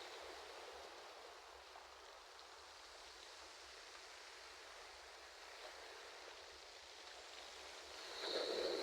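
Ocean surf: a soft, steady hiss of water between waves, swelling again as the next wave comes in near the end.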